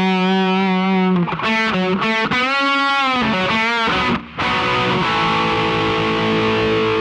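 Intro music on distorted electric guitar: long held notes with a bending slide, and a brief break a little past the middle.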